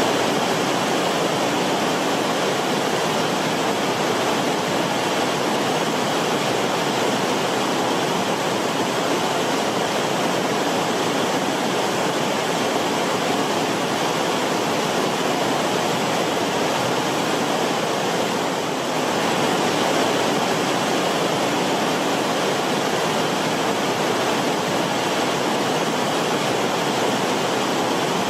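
Creek water rippling and bubbling over rocks in its bed, a steady rushing flow.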